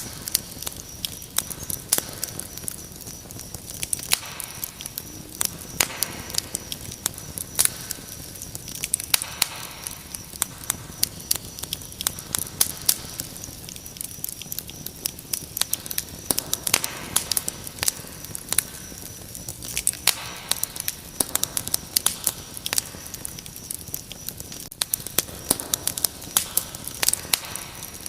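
Wood fire crackling with frequent sharp pops, over a steady high-pitched cricket trill.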